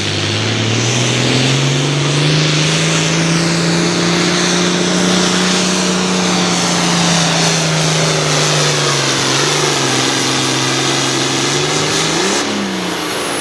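International Harvester 1066 altered farm tractor's turbocharged diesel engine at full throttle, pulling a weight sled. Its pitch climbs as the pull starts, holds high, then sags slowly over the second half as the sled bogs it down, with a brief rev and drop near the end.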